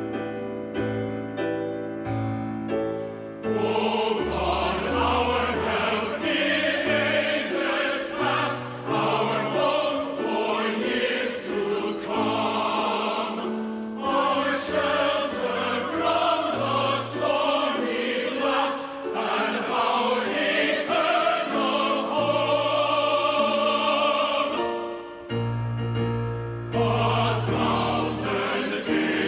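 Church choir singing a hymn with orchestral accompaniment. It opens with a short instrumental passage, and the choir comes in about three and a half seconds in.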